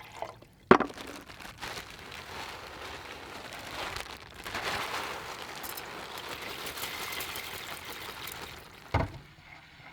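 Rice being put on to cook in a pot: a sharp clack about a second in, then a steady pattering hiss for several seconds, and a knock near the end.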